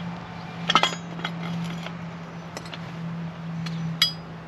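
A few sharp metallic clinks of metal tools or hardware being handled, the loudest just under a second in and another near four seconds, over a steady low hum.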